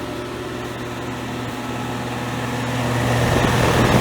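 Air conditioner running: a steady mechanical hum with fan noise, growing louder near the end.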